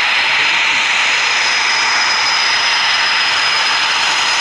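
Eurofighter Typhoon jet engines running loud and steady: a dense rush of jet noise with a high, steady whine over it.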